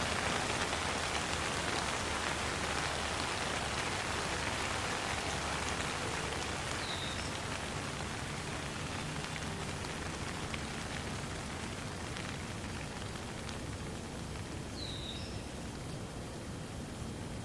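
Steady rain falling, an even dense patter that slowly softens. Two brief high chirps sound faintly over it, about eight seconds apart.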